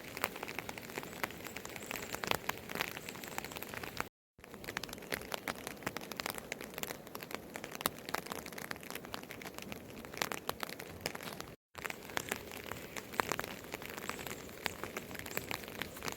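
Rain pattering on a surface, a dense, irregular ticking of drops that cuts out briefly twice.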